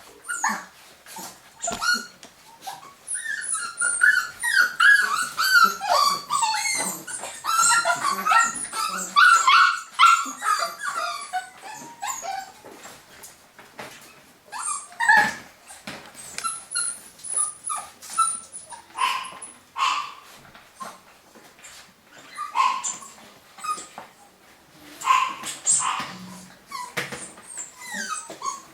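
Young Cavapoo puppies whimpering, squeaking and yipping, many small high-pitched calls overlapping in a busy cluster early on, then scattered short yips.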